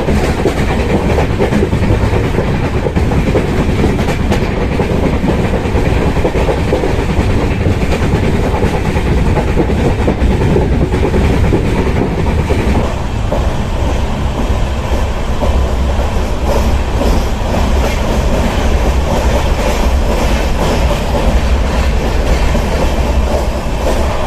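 Indian Railways passenger train running at speed on the line, heard from aboard: a loud, steady rumble of the wheels on the rails with the coach rattling.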